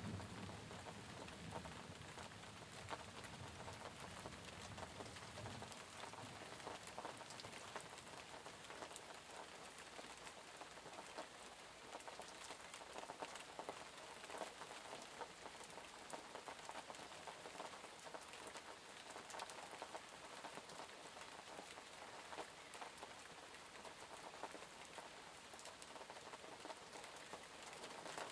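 Steady rain falling, with many small drops pattering on a surface throughout. A low rumble dies away in the first few seconds.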